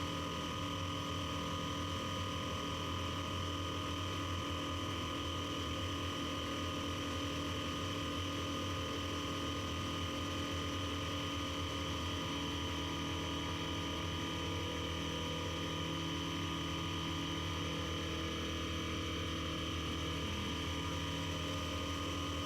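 Piper Super Cub floatplane's engine and propeller running steadily in flight, heard from inside the cabin as an even drone with a few steady tones.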